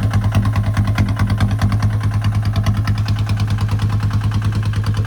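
Kubota ZT155 single-cylinder diesel engine running steadily, with a fast, even firing beat.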